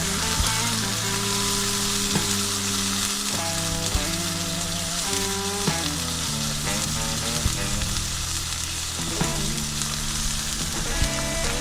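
Food sizzling in a frying pan, a steady hiss with occasional sharp pops, over soft background music.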